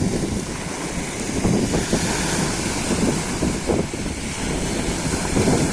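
Wind buffeting the microphone at the seashore, with the wash of sea surf beneath it.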